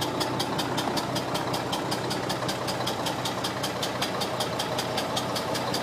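Old truck engine idling steadily on its first run, with a sharp, even ticking about five or six times a second over the hum.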